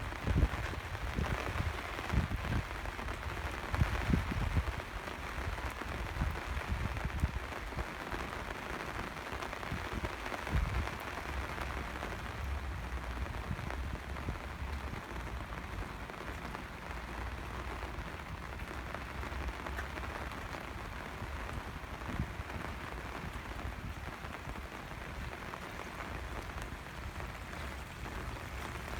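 Steady rain falling, an even hiss throughout, with irregular low thumps in roughly the first ten seconds.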